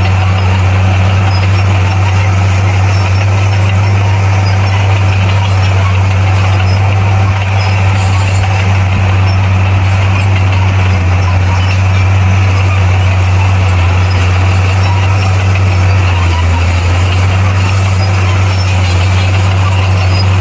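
A bulldozer's diesel engine running steadily, a constant low drone with no change in pitch.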